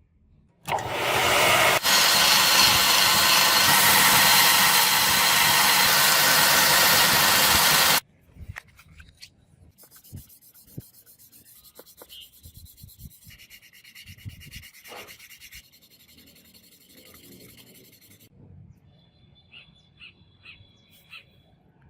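A power sander or grinder running steadily against the work. It starts just under a second in and cuts off about eight seconds in, followed by quiet scattered clicks and handling noises.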